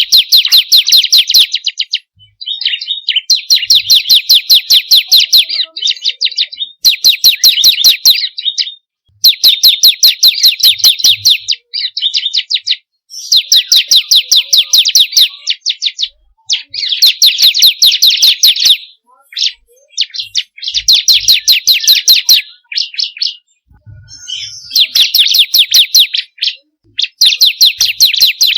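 Bar-winged prinia (ciblek kristal) singing: repeated bouts of one to three seconds of rapid, evenly repeated chirps, separated by short pauses.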